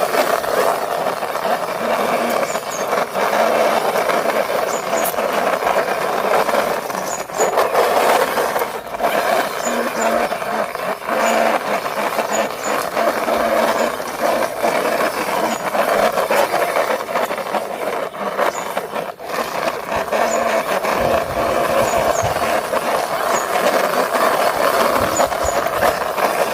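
Toy police car's wheels rolling and rattling along the surface as it is pushed by hand, a steady rolling noise with small ticks.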